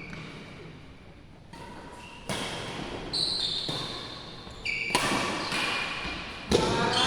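Badminton rally on an indoor court: several sharp racket-on-shuttlecock hits with short high squeaks of shoes on the court floor in between.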